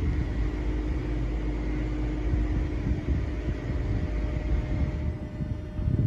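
Steady low rumble of a car's engine and road noise heard from inside the moving car, with a constant hum; the hiss thins near the end.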